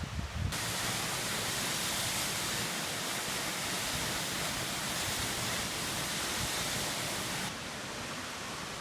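Steady rushing water of a waterfall, an even hiss that cuts in abruptly about half a second in. Near the end it suddenly turns duller, losing its highest hiss.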